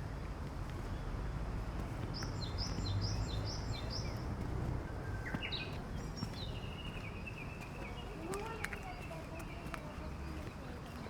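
Wild birds singing and calling over steady outdoor background noise: a run of about five quick high chirps, then a longer trilling call.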